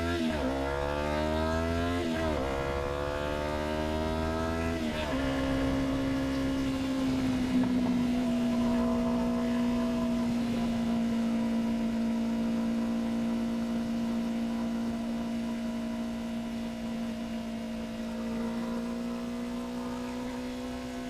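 Yamaha R3's 321 cc parallel-twin engine accelerating through the gears, its pitch rising and dropping back at upshifts about 2 and 5 seconds in, then holding a steady note at cruising speed.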